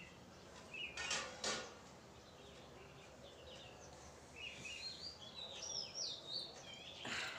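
Small birds chirping in the background: quick rising and falling chirps in two spells, the second about four seconds in. There are a few short rustles about a second in and again near the end.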